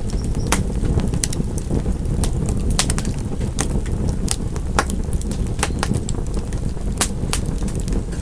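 Wood fire crackling steadily: irregular sharp pops and snaps, several a second, over a constant low rumble of burning.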